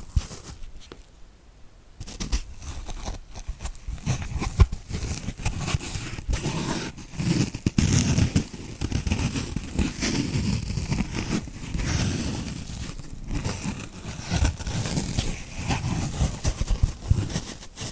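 Kitchen dish sponge crackling and crunching right at the microphone, a dense, irregular run of small clicks and crunches. Fainter for about the first two seconds, then louder.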